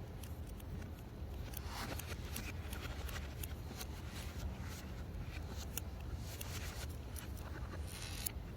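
Scattered small clicks and scrapes of parts being handled, with a longer scrape near the end, over a steady low hum.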